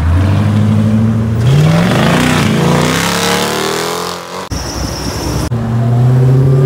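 Dodge Charger muscle-car engines revving and accelerating away, the engine pitch climbing in a rising sweep over the first four seconds. The sound cuts off abruptly twice between shots and ends on a steady, loud engine drone.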